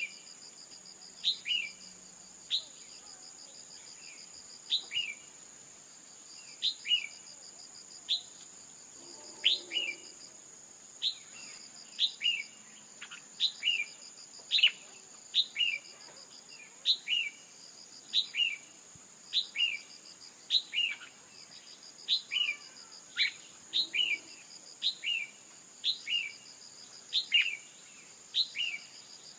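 Female red-whiskered bulbul calls: short, sharp notes falling in pitch, mostly in pairs, repeated about once a second. They are the kind of call used to stir a male bulbul into singing. Under them runs a steady high-pitched insect-like buzz with a pulsing trill.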